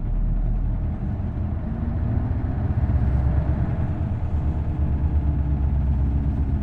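Isuzu Erga route bus's V8 diesel engine running under way, a steady low drone; from about two seconds in it pulls harder and its note rises slightly.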